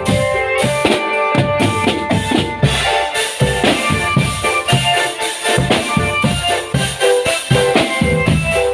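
Marching drum band playing: drums beating a busy, steady rhythm under a melody of held pitched notes, with the high, bright percussion growing fuller about three seconds in.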